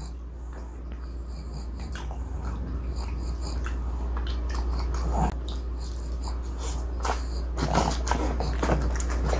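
Close-miked chewing of a soft, chewy egg tart with a sweet-potato and glutinous-rice crust: scattered wet mouth clicks, thicker near the end, over a steady low hum.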